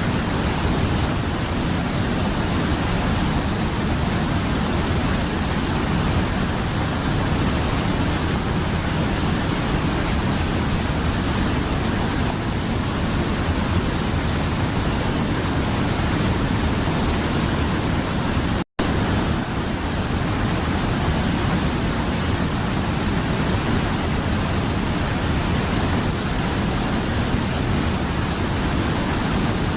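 Mountain river flowing, a steady rush of water. The sound cuts out for an instant about two-thirds of the way through, then carries on unchanged.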